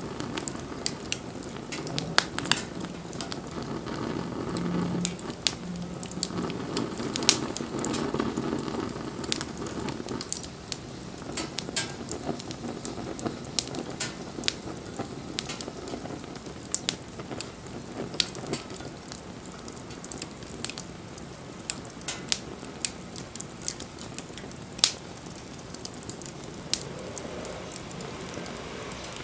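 Wood fire crackling, with sharp pops scattered irregularly throughout. A low rushing hiss from the burning wood is stronger during roughly the first third and then dies down.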